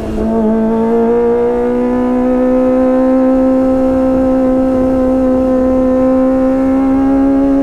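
Kawasaki ZX-25R's 250 cc inline-four engine running through a Sportisi Motorsport SRX aftermarket exhaust, holding a loud, high steady note that climbs slowly in pitch as the engine pulls.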